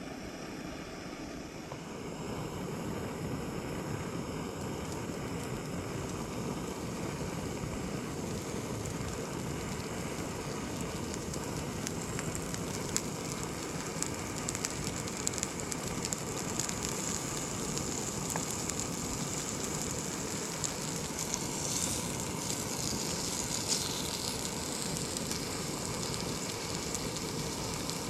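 Campfire burning with a steady hiss and scattered sharp crackles and pops, which grow more frequent in the second half.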